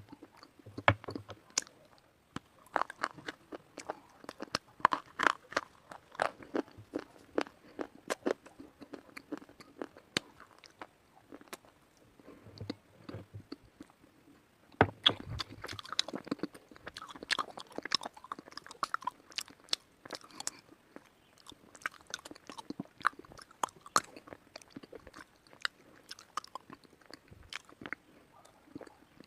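White slate bar being bitten and chewed close to the microphone: a dense run of sharp, brittle crunches, easing off briefly near the middle and then starting again.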